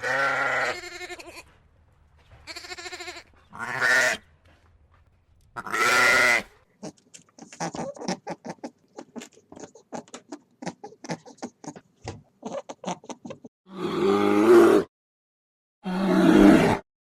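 Goat bleating: a series of separate pitched calls, with a long run of rapid short clicking notes in the middle.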